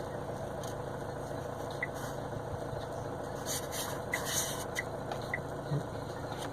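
2014 Chevy Cruze's 2.0-litre turbo-diesel engine idling steadily, heard from inside the cabin, with a few faint light ticks.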